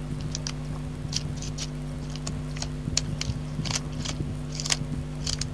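Irregular short scratching and scuffing as the keyboard's rubber key-contact strips are scrubbed clean, a few strokes a second, over a steady low electrical hum.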